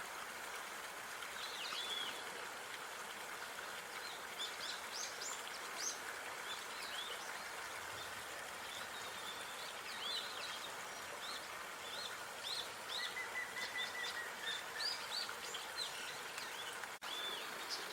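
Outdoor park ambience: small birds chirping and calling often over a steady background hiss, with a brief trill about two-thirds of the way through. The sound cuts out for an instant near the end.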